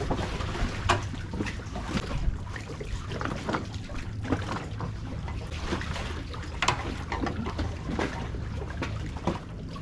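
Water trickling and lapping around a small inflatable dinghy as wet lines are hauled up out of the water, with scattered light knocks and clicks of line hardware and a low steady rumble underneath.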